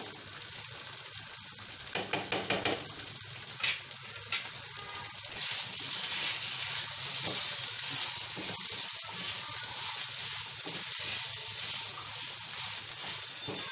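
Chicken tikka and capsicum filling sizzling in a non-stick frying pan while being stirred with a spatula. About two seconds in, a quick run of about seven knocks of a utensil against the pan; from about five seconds on the sizzle runs as a steady hiss.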